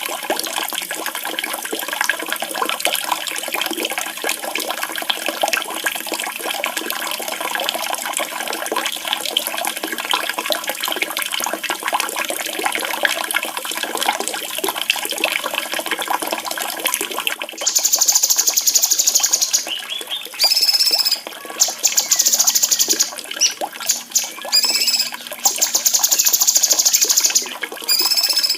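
Running, splashing water, the 'water therapy' track for caged songbirds. About two-thirds of the way in, a songbird starts singing over it in long, rapid, high trills, repeated with short breaks, while the water goes on more quietly underneath.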